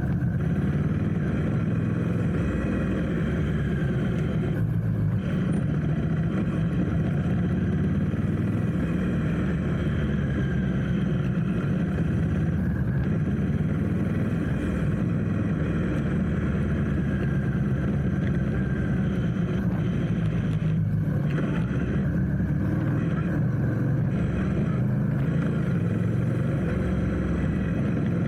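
Motorcycle engine running steadily while riding through city traffic, a continuous low drone heard from on the bike.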